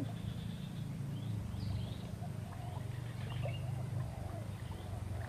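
Birds calling: short, repeated arched chirps and falling whistles, over a steady low hum.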